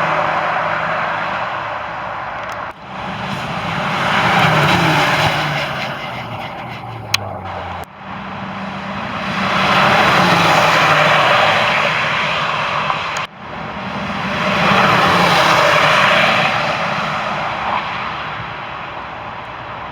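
Supercars driving past at high speed, one after another: each engine note swells, peaks and falls away, with the pitch dropping as it passes. There are three passes, joined by abrupt cuts.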